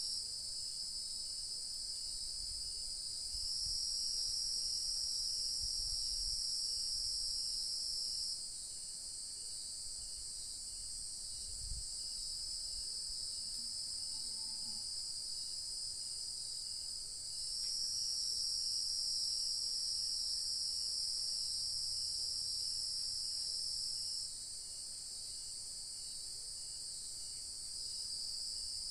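Evening insect chorus of crickets: a steady, high-pitched shrill in two pitches that swells louder twice for several seconds and drops back. A faint brief call sounds about halfway through.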